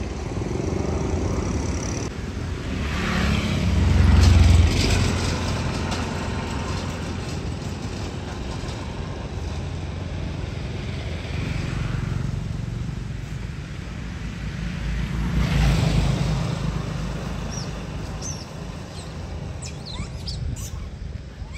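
Motor vehicles passing, the engine noise swelling and fading twice, loudest about four seconds in and again around sixteen seconds.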